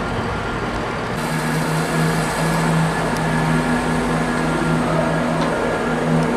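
A train running at the platform: a steady mechanical drone with a low hum and a high hiss, which grows louder about a second in.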